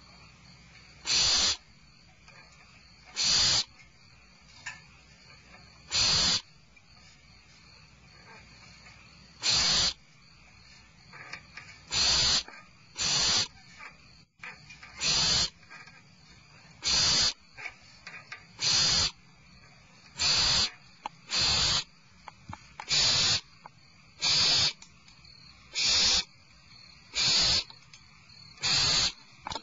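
Barn owl nestlings giving hissing begging calls: short hoarse hisses, about half a second each, repeated every one to three seconds.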